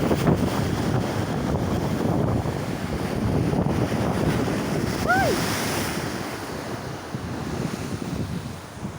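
Strong wind buffeting the microphone over the steady wash of heavy waves, easing a little near the end. A single short cry that rises and falls in pitch cuts through about five seconds in.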